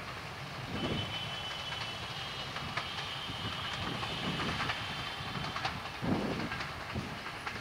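Broad-gauge passenger train rolling away over the rails with wheels clattering, while motorcycle and truck engines rev up to cross the level crossing behind it. A thin, high steady whine runs from about a second in until past the middle.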